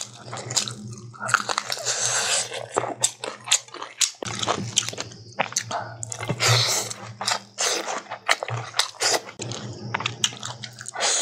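Close-miked eating: biting and chewing chicken, long beans and greens with rice, full of wet mouth sounds and sharp crisp clicks.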